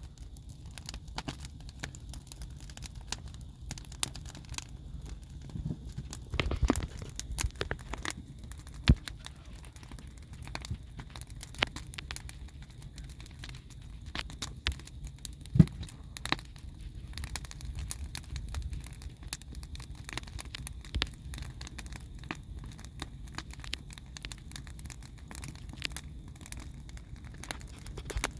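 Wood fire crackling, with irregular sharp pops and snaps over a low rumble of burning; a few louder pops stand out, about a third of the way in and around the middle.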